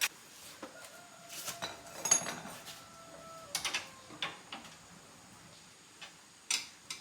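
Metal hand tools and motorbike parts clinking and knocking during disassembly: a handful of short, sharp clinks spread over several seconds.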